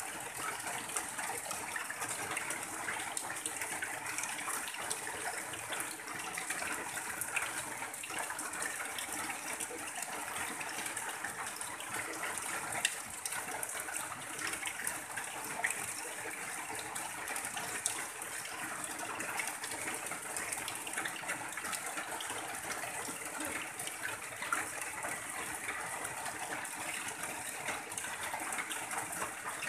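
Steady rain on a tin roof, with runoff pouring off the roof edge in a thin stream, making an even hiss. A few louder drops stand out now and then.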